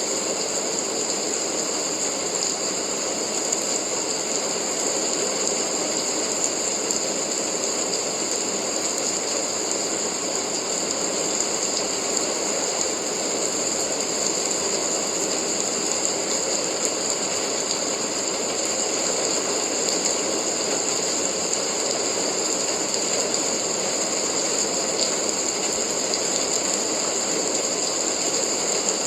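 Steady rain, an even hiss that runs unbroken with no changes.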